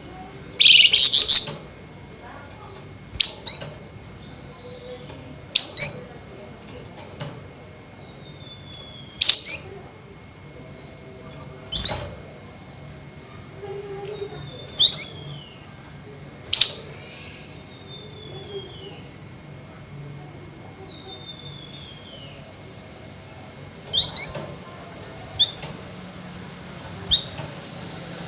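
Flamboyan bird calling: loud, very short, sharp rising calls every two to three seconds, with softer thin whistles sliding down in pitch between them.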